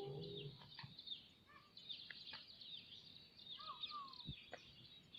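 Faint chirping of many small birds: short, quick downward-sweeping calls repeated over and over, with a lower whistled call twice near the end.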